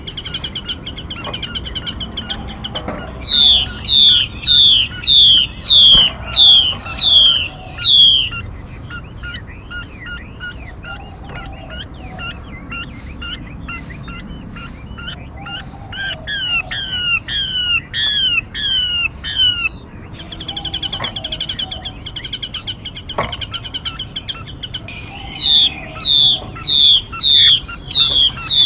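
Recorded songbird calls played as a trapping lure: loud, clear whistled notes, each sweeping quickly downward, repeated in runs of about eight at roughly one and a half a second. A softer run sits midway, a quick trill follows it, and the loud run returns near the end, over faint chattering calls.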